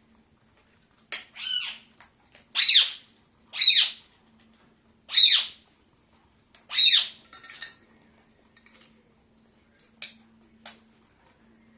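Pet parakeet squawking: about five loud, harsh calls in the first seven seconds, then two short sharp calls near the end.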